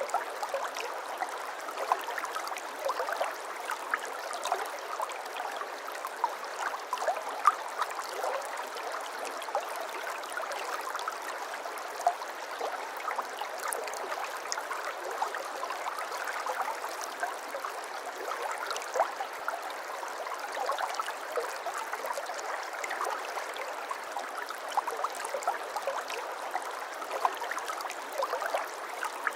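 Shallow stream of water flowing and babbling steadily, full of small quick splashing notes, with no low rumble.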